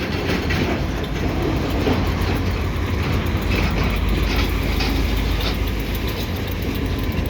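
Diesel switcher locomotives, a GP38-2 and a GP20C-ECO, running as they shove a long cut of loaded double-stack container cars, with a steady low rumble from the engines and the rolling cars.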